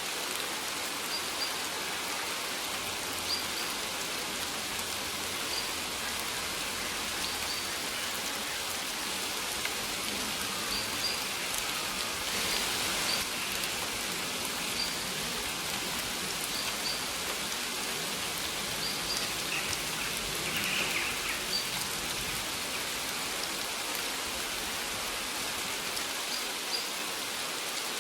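Steady rain falling, with birds chirping briefly every second or two over it.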